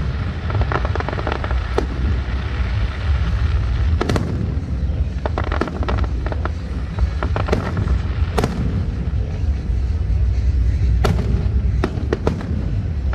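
Fireworks display going off: a continuous low rumble of booms with about ten sharp cracks scattered through it.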